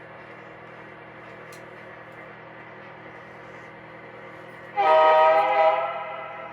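Lionel Vision Line genset switcher's onboard sound system: a steady low hum, then one loud diesel horn blast about five seconds in that holds for about a second and fades away.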